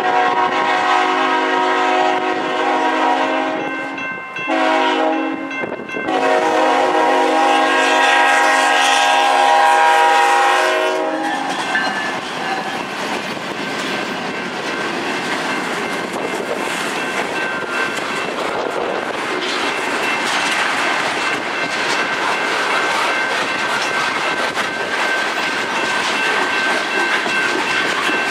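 Diesel locomotive horn on a BNSF freight train sounding long, short, long for about the first eleven seconds. The horn gives way to the train rolling past at the crossing: steel wheels clattering over the rail joints as the tank cars go by, with a faint crossing bell ringing behind.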